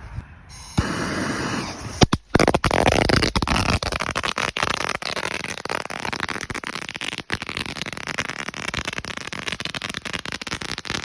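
A long string of firecrackers going off, starting with a few sharp cracks about two seconds in and then settling into a continuous rapid crackle of small pops.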